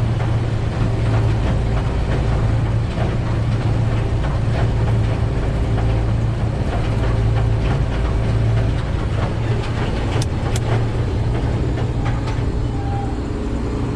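Case 2144 combine running, heard as a steady low drone of engine and machinery, with two sharp clicks about ten seconds in.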